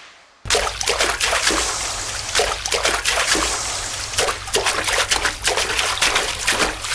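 Water splashing and trickling, a dense irregular run of splashes that starts suddenly about half a second in.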